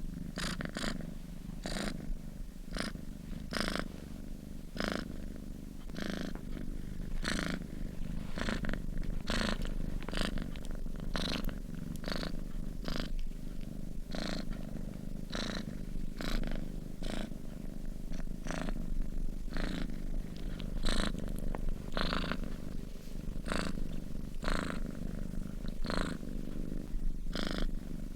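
Domestic cat purring in its sleep: a continuous low purr rumble that pulses with each in and out breath, roughly one to two breaths a second.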